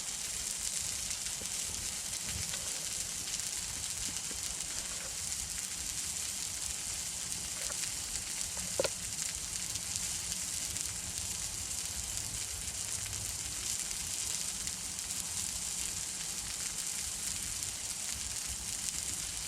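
Burger patty frying over a campfire, sizzling steadily, with one short knock about nine seconds in.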